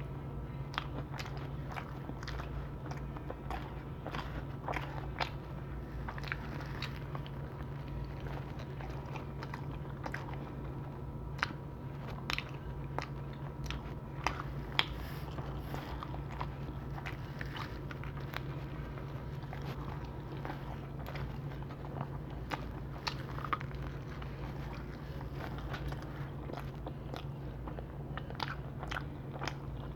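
Close-miked eating of Domino's pizza: a steady run of bites, chewing and crust crunching, with many small sharp mouth clicks, over a steady low hum.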